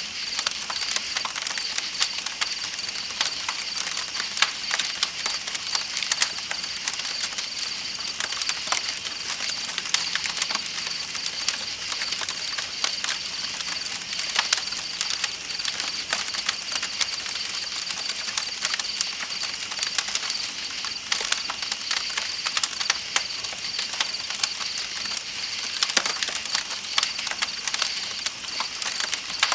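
Campfire crackling with dense, irregular pops, over a steady high-pitched trill of night insects and the even hiss of a flowing river.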